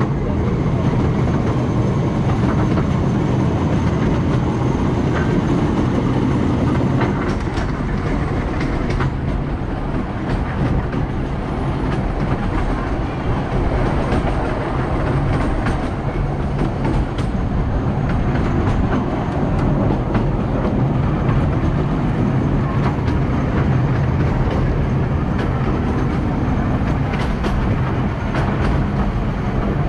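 Riding in an open carriage of a 381 mm narrow-gauge park railway train on the move: a steady rumble of wheels on the track, with scattered clicks along the way.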